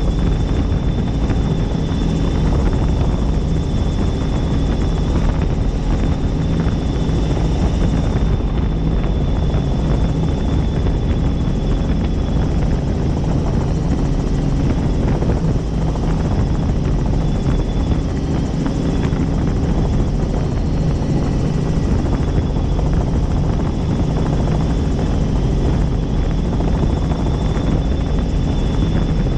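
Helicopter in flight, heard from on board: a steady, loud rotor and turbine drone with a thin high whine that comes and goes.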